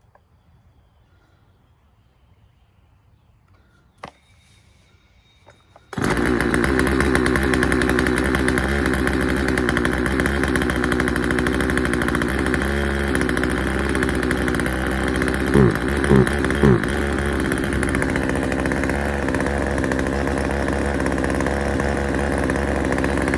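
Husqvarna 136 two-stroke chainsaw engine firing up about six seconds in and running steadily, with three quick throttle blips around the middle. It is being tuned by adjusting the low-speed mixture screw on its replacement carburetor.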